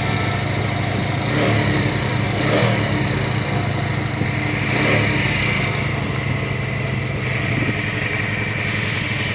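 Small single-cylinder four-stroke engine of a Bajaj commuter motorcycle running at idle, with a few mild swells in engine speed. It has just been started after its carburettor was refitted.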